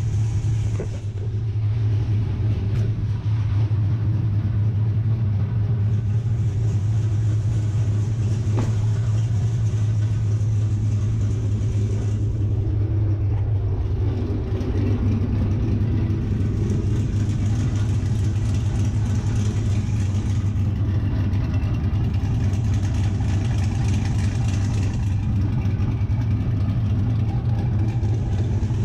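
Pickup truck's GM V8 with a Texas Speed stage 4 cam, running steadily at idle and heard from outside. The engine has a freshly installed cam and DOD delete, and its tune is still being sorted.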